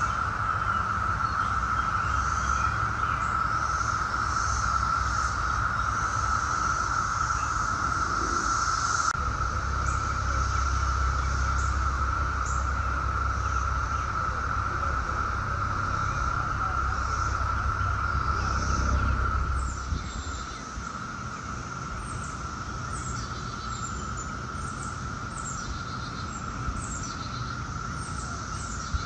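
Brood X periodical cicadas (17-year cicadas) in a massed chorus: one steady, unbroken droning buzz at a single pitch. A low rumble underneath drops away about two-thirds of the way through, and short high chirps come and go above the chorus.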